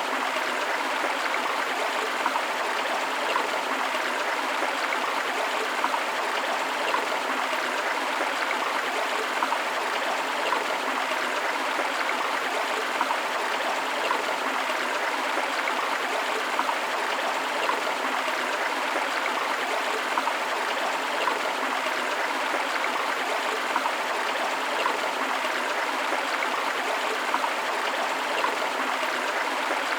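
Forest river flowing over rocks: steady rushing and babbling water, with many small splashes.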